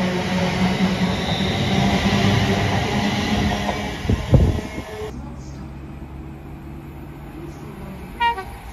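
Class 350 Desiro electric multiple unit passing close by at speed: a loud rush of wheels on rail with a steady motor hum, two sharp thumps about four seconds in, then much quieter as it runs away, leaving a faint steady hum.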